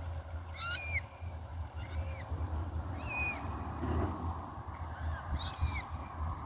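A waterbird giving four short, high calls, each rising then dropping slightly, over a steady low rumble.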